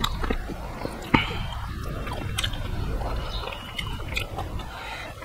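Close-miked chewing of rice and mixed vegetable curry eaten by hand, with wet mouth clicks and smacks. A sharp click comes about a second in.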